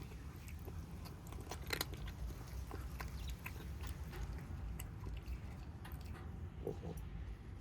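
Stray kittens eating, chewing and biting into their food in irregular small clicks and crunches, over a steady low rumble.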